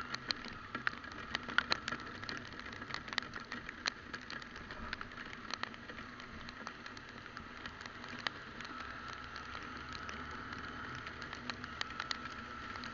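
Raindrops ticking irregularly on the camera over the steady running hum of a motorcycle being ridden in the rain.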